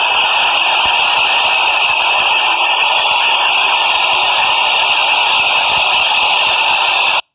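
New York City subway train running through the station: a loud, steady rushing noise with a strong high-pitched squeal held above it, cut off abruptly near the end.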